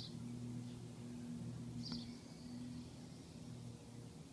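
Faint garden ambience: two brief high bird chirps, one at the start and one about two seconds in, over a steady low hum.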